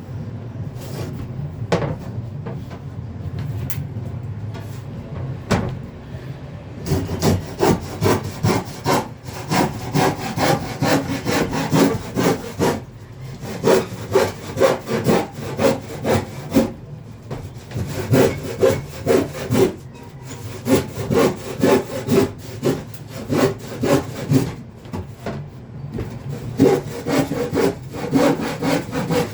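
Hand saw cutting through wood in quick, regular back-and-forth strokes, starting in earnest about seven seconds in after a few scattered knocks.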